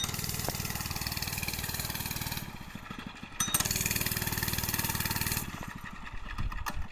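Small mini bike engine running hard as the bike circles around, passing close twice with a quieter stretch in between as it goes farther off, then fading away.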